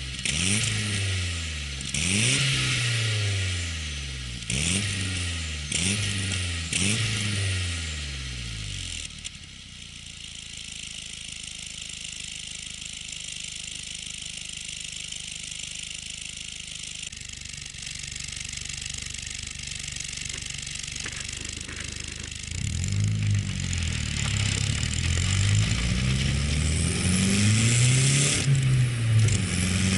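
Nissan Silvia S12's CA18ET turbocharged four-cylinder engine revved in about five quick blips, each rising and falling. It then settles to a steady idle for a long stretch before being blipped repeatedly again in the last several seconds.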